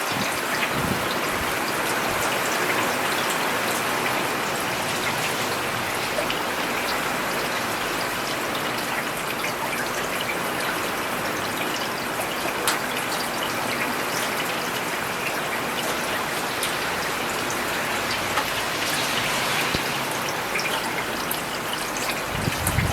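Steady rain falling on a paved road: an even hiss with scattered individual drop ticks. A brief low rumble comes in near the end.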